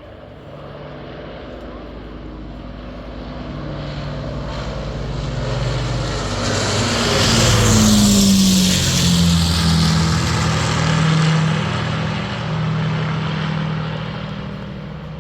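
Avro Lancaster bomber's four Rolls-Royce Merlin piston engines droning in a flypast. The sound builds steadily, peaks about eight seconds in with a drop in pitch as the aircraft passes, then slowly fades.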